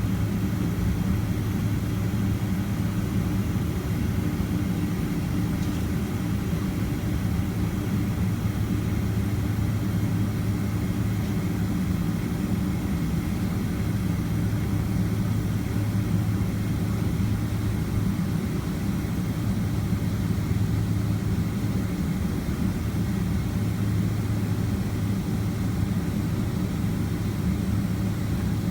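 Steady low hum of a Boeing 767-300ER's jet engines and cabin airflow heard from inside the passenger cabin, holding level with no change in pitch or loudness.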